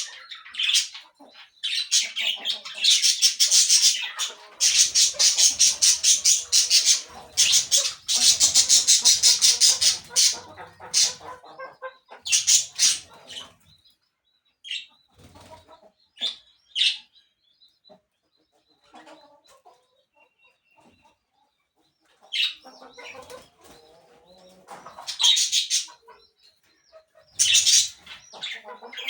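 Birds squawking and calling in loud, rapidly pulsing bursts lasting a few seconds each, with short scattered calls in a quieter stretch midway.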